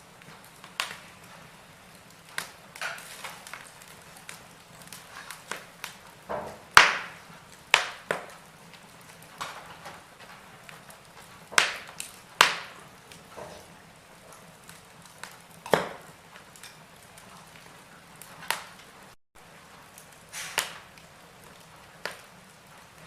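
Wood fire crackling in a fireplace: irregular sharp pops and snaps over a faint hiss, the loudest about seven seconds in.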